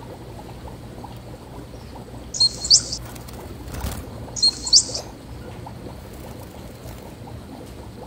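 Two short, high chirps from caged birds, about two seconds apart, over a steady low hum. A single knock falls between them.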